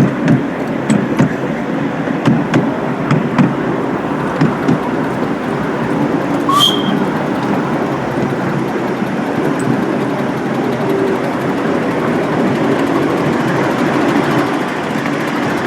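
Miniature railway locomotive and train running along the track. A run of regular clacks sounds over the first few seconds, then a steadier rumble with one short high squeak about halfway.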